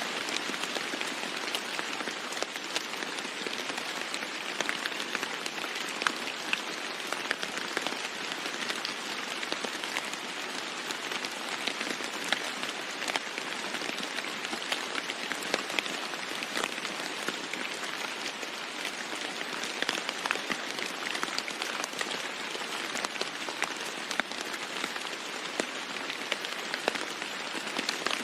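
Steady heavy rain falling on a roof, a dense even hiss with many close drops ticking sharply through it.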